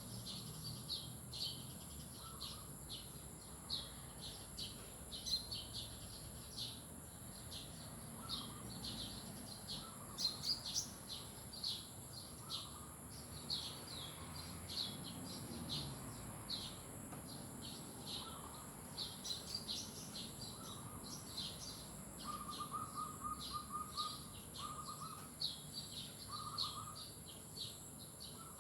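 Songbirds chirping in quick, repeated high-pitched notes over a steady high whine. A lower, rapid trill comes in several times in the last third.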